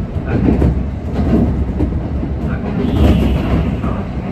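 Kintetsu 1620 series electric train running at speed, heard from inside the leading car: a steady rumble with uneven clacks of the wheels over the rail joints.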